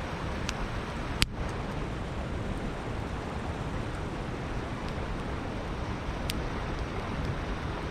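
Steady rushing of a river with a crackling campfire: one sharp pop a little over a second in, and a few fainter snaps later.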